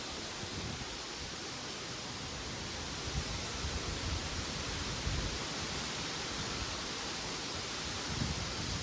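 Wind through backyard trees and plants, a steady rustling hiss of leaves, with gusts rumbling on the microphone a few times from about three seconds in.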